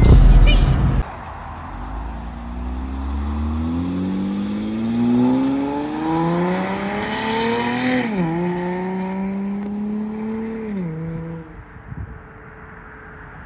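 Acura TL's V6 engine accelerating past, its revs climbing steadily, dropping sharply at an upshift about eight seconds in and again about three seconds later, then fading as the car pulls away. Music plays briefly at the very start.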